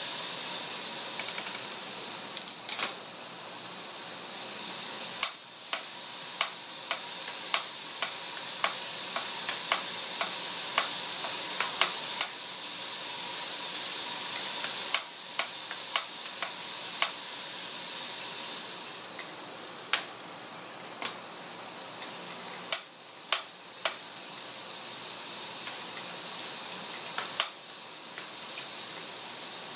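Trek road bike being pedalled, with sharp clicks over a steady hiss of the turning drivetrain. The clicks come in runs about every half-second to second, with gaps between runs. The clicking persists despite a new cassette and chain and with different pedals and shoes, so its cause is still unknown.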